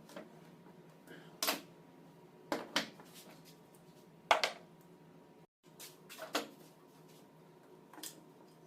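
Metal tools and alternator parts being handled: about five separate sharp clinks and knocks, the loudest about four and a half seconds in, over a steady low hum.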